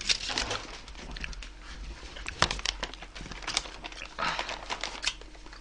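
Irregular crinkling rustles and light clicks of things being handled, with no steady sound under them.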